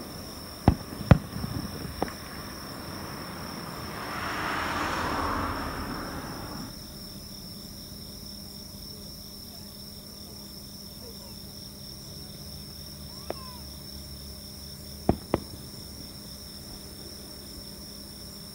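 Distant fireworks going off: three sharp bangs in the first two seconds, a rushing hiss that swells about four seconds in and cuts off suddenly, then a lull over a steady high trill of crickets, broken by a faint crack and two quick bangs about fifteen seconds in.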